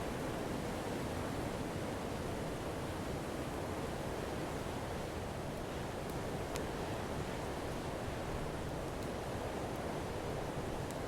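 Campfire burning with a steady, low rushing noise and a few sparse sharp crackles, the clearest about six and a half seconds in.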